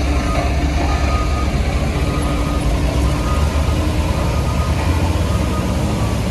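Heavy diesel road-construction machinery running steadily, a deep low engine rumble with a faint steady whine above it.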